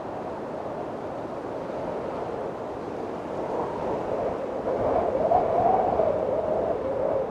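Windstorm: strong wind blowing steadily, with a gust swelling about halfway through, its pitch rising and falling slightly, and easing off near the end.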